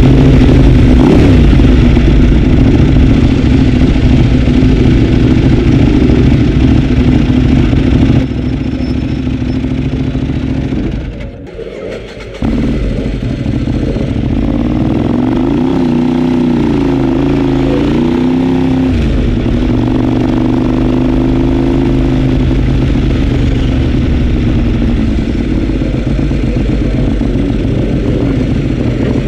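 Ducati 848 L-twin race engine running at steady revs, recorded onboard. Its sound drops about a third of the way in and nearly cuts out for a moment. The revs then rise and fall a few times before settling steady again.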